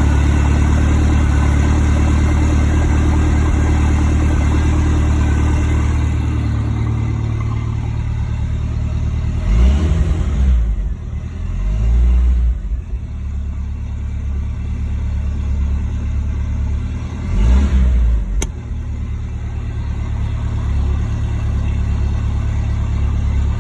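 OMC-Ford 2.3-litre four-cylinder boat engine idling steadily, revved briefly three times, about ten, twelve and seventeen seconds in. It runs smoothly on a freshly rebuilt carburetor that cured its refusal to idle.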